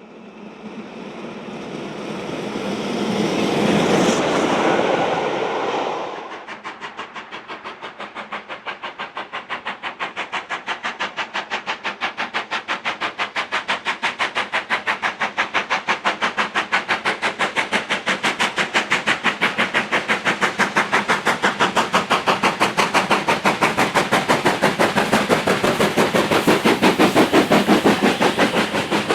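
A rushing sound swells up and cuts off about six seconds in. Then a steam locomotive's exhaust beats in a steady, quick rhythm of about three to four a second, growing slowly louder as the engine works nearer.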